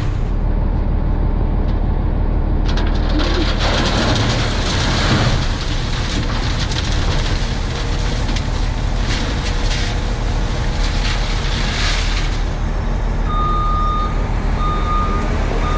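Diesel engine of an International S1900 dump truck (DT466) running steadily, with a hissing noise through the middle. Near the end a reversing alarm beeps about once a second.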